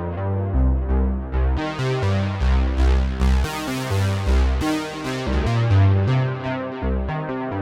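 Behringer Poly D analog synthesizer playing a pulsing bass line of short repeated notes that change pitch, with higher notes over it; the tone turns much brighter from about a second and a half in.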